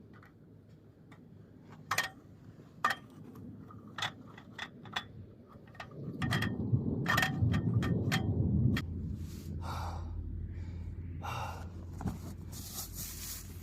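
Scattered clicks and knocks of camp gear being handled. About six seconds in, a louder low rumble lasts for nearly three seconds and then settles into a steady low hum.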